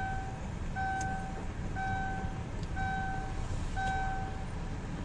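Vehicle reversing alarm beeping five times, about once a second, over a steady low engine rumble.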